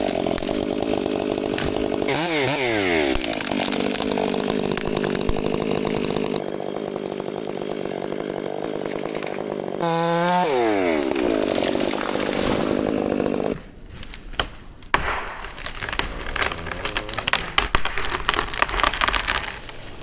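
Chainsaw running near full throttle, its pitch dipping and rising again a couple of times as the throttle is eased and opened. About two-thirds through it cuts off abruptly to a stretch of irregular cracking and snapping of wood.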